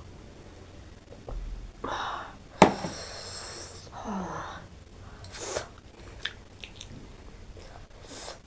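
A person chewing and eating close to the microphone, with sniffs and sharp breaths between mouthfuls and a sharp click about two and a half seconds in.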